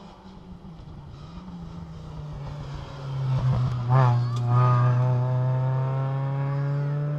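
Rally car engine at high revs as the car approaches at speed, growing louder to a peak about four seconds in. It then holds a steady high note that sinks slightly in pitch as the car passes.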